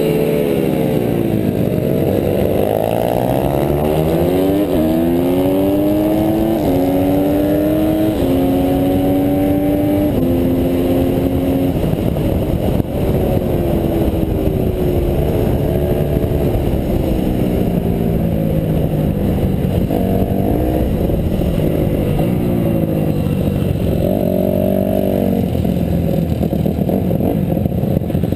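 Honda CRF150R pit bike's single-cylinder four-stroke engine at racing speed, revving up and shifting up through the gears over the first dozen seconds. It then drops in pitch as it slows for corners and revs hard again several times.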